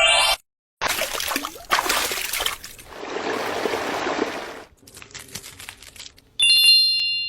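A run of short, abruptly cut sounds, mostly noisy splashing and trickling like water, broken by brief gaps. About six and a half seconds in comes a bright ringing tone that fades away.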